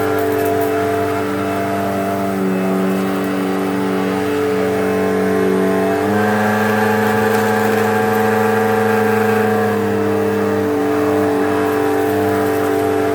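Eureka Whirlwind upright vacuum cleaner's 12-amp motor running steadily, a humming whine whose pitch steps up about six seconds in and drops back around ten seconds as its load changes.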